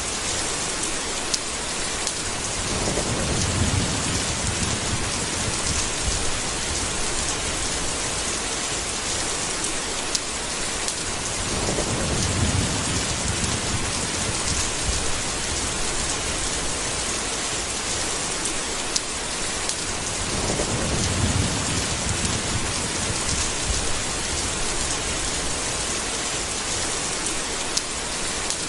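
Steady heavy rain, with three low rolls of thunder about every eight or nine seconds and a few sharp drip ticks.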